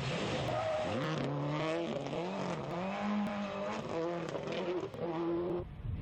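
Rally car engine revving hard, its pitch climbing and dropping several times as it shifts gear and lifts off, then cutting off suddenly near the end.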